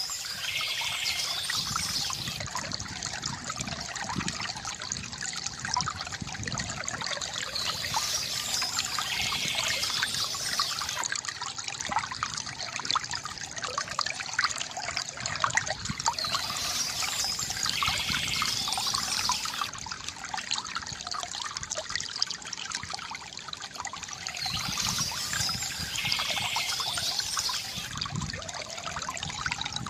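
Water from a bamboo fountain trickling and splashing steadily, full of small drips and splashes. A brighter, higher wash of sound swells in about every eight seconds.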